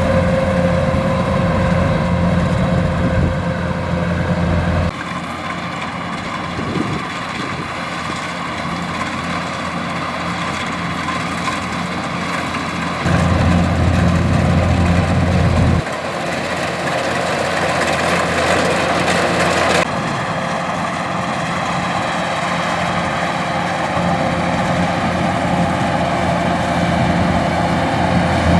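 Kubota DC105X rice combine harvester running steadily, its engine and threshing machinery making a continuous mechanical drone. The loudness and tone shift abruptly several times.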